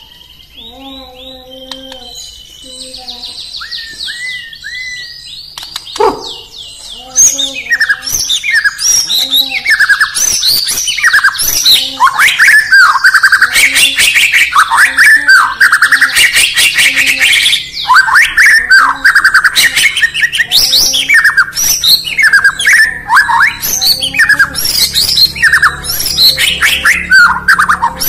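White-rumped shama (murai batu) singing a fast, varied song of whistles, gliding notes and sharp chirps. The song starts soft and sparse and becomes continuous and loud from about seven seconds in.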